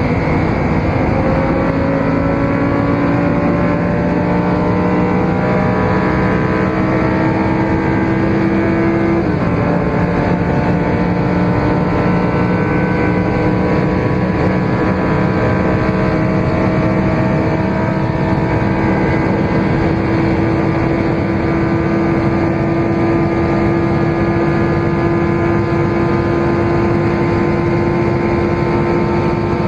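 Supercar engine under hard acceleration, its pitch climbing steadily. One upshift about nine seconds in drops the pitch, then it climbs again through the next gear.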